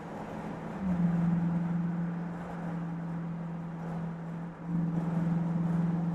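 Car engine running with a steady droning hum that holds one pitch, getting louder about a second in and dipping briefly before picking up again.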